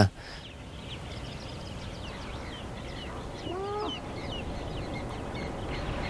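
Birds chirping: many quick, high, falling chirps several times a second over a steady background hiss, with one lower call that rises and falls about three and a half seconds in.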